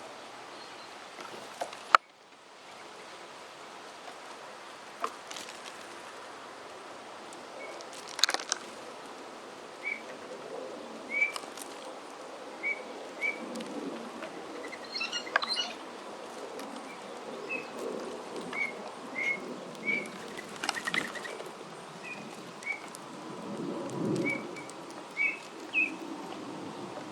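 Sparrows chirping, short single notes repeated every half second to a second through the second half, over steady wind noise. A few brief flutters of wings, and one sharp click about two seconds in.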